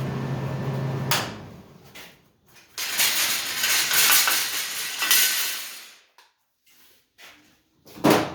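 Metal shop work on a cast iron stove door: a steady machine hum cuts off about a second in, followed by about two seconds of loud hissing noise, then scattered metal clinks and a sharp knock near the end.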